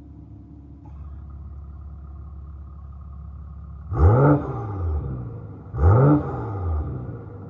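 BMW X6 40i's turbocharged inline-six idling through an M Sport exhaust with the resonator deleted, blipped twice with quick revs that rise and fall about two seconds apart.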